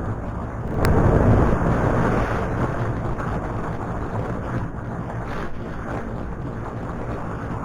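Wind rushing over an action camera's microphone on a moving motorcycle, with the engine running underneath. A short click about a second in, then a louder surge of wind and engine for a second or two before it settles back.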